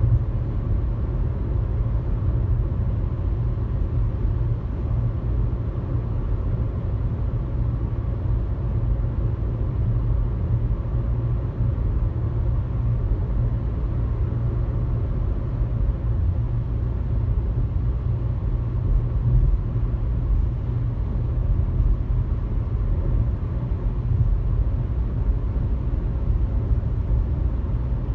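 Steady low rumble of a car cruising on a highway: engine and tyre road noise, unchanging throughout.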